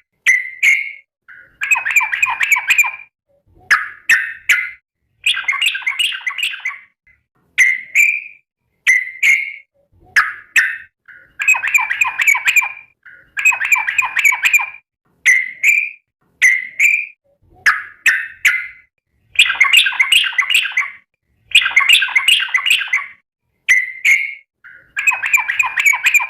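Yellow-vented bulbul (trucukan) calling over and over: short bubbling, chattering phrases of a second or so alternating with brief single notes.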